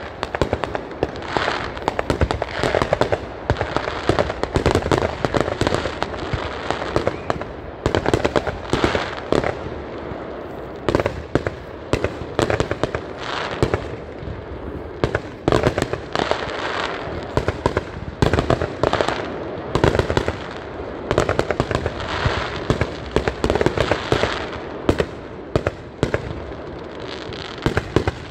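Fireworks going off in a rapid, continuous barrage: many sharp bangs close together over a steady crackle of bursting stars.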